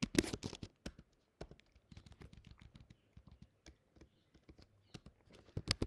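Typing on a computer keyboard: a run of quick key clicks, louder at the start and again near the end, sparser and softer in between.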